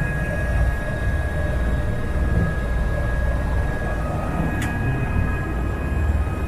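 Helicopter in flight: a steady rotor and engine drone with a thin, steady high whine over it, and one short click about four and a half seconds in.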